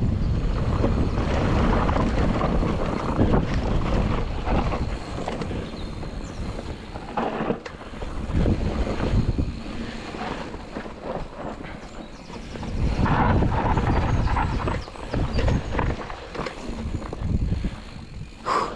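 Mountain bike descending a rough trail at speed: wind buffeting the microphone over the tyres rolling on dirt and rock, with short clatters as the bike hits bumps. Loudest in surges at the start and again about two-thirds through.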